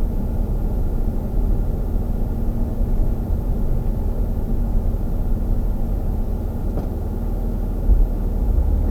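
Steady low rumble of a vehicle engine running at idle, with a brief louder thump about eight seconds in.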